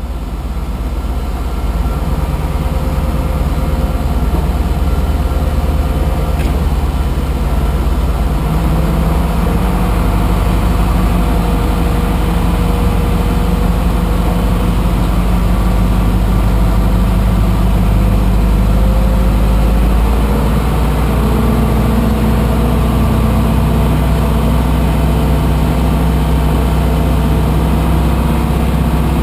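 Aircraft pushback tug's engine running steadily under load, its pitch stepping up about a third of the way in and again about two-thirds of the way through.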